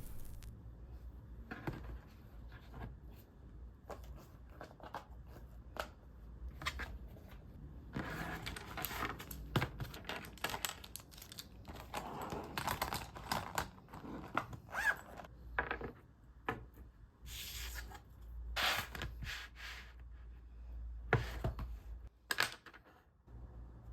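Close-up paper and stationery handling at a desk: irregular taps and clicks, with crinkling, tearing-like rustles of paper.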